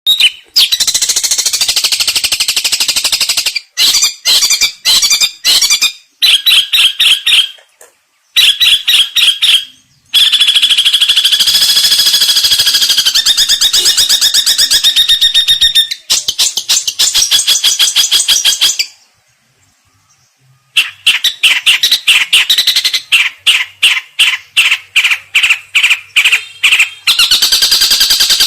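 Long-tailed shrike (cendet) singing vigorously ('gacor'): loud phrases of very rapid, high, harsh chattering trills in quick succession, broken by short gaps and a longer pause of about two seconds about two-thirds of the way through.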